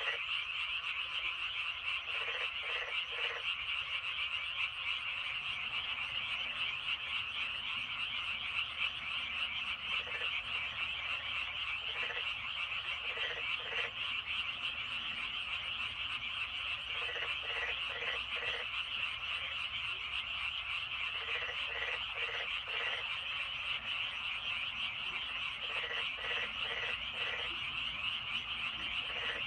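Dense, steady chorus of frogs calling from a flooded rice paddy. Every few seconds a nearer frog breaks in with short runs of three or four croaks.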